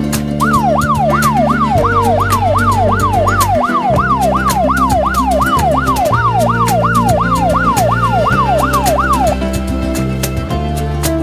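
Electronic siren wailing rapidly up and down, about two sweeps a second, stopping about nine seconds in, over background music with a steady beat.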